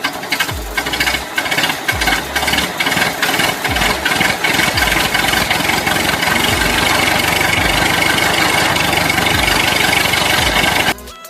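Loud engine-like rattling noise over an electronic music track, with a deep falling bass hit about once a second. The noise cuts off sharply near the end.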